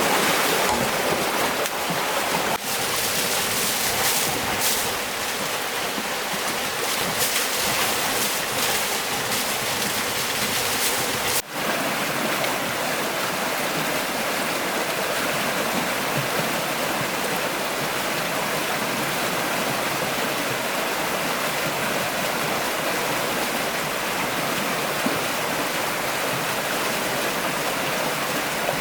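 Steady rushing of flowing stream water, with a short break about a third of the way in, after which the rush sounds slightly duller.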